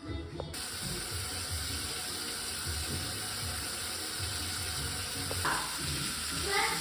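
Steady hiss of water running from a tap, starting abruptly about half a second in, with faint music underneath.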